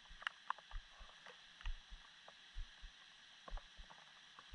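Rain dripping through the trees in a thunderstorm: irregular drops tapping and ticking, some landing close as dull thumps, over a faint steady rain hiss.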